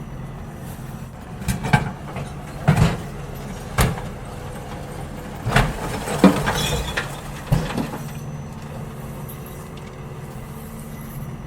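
Garbage truck running steadily while emptying bins, with a series of loud bangs and clatter from about one and a half seconds in until about eight seconds in.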